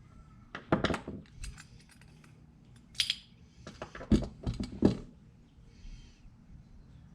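Small metal carburetor parts and hand tools clinking and clattering against each other and the workbench: a few sharp clicks about a second in, one about three seconds in, and a quick cluster of clinks between four and five seconds.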